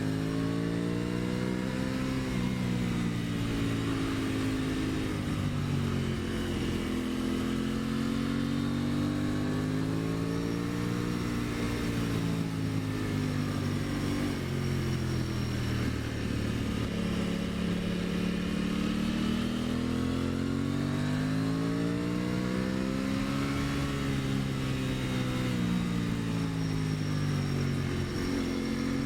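2023 Aprilia Tuono 660's parallel-twin engine pulling up a steep mountain climb in a low gear, its revs rising and falling slowly several times through the hairpins, with wind noise over it.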